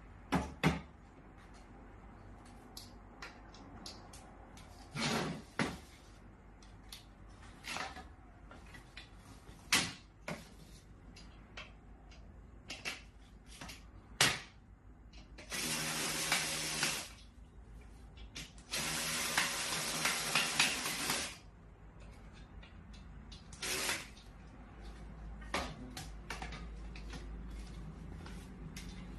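A power drill running in two bursts, the first about a second and a half long and the second about two and a half seconds, with scattered knocks and clicks from handling parts before and after.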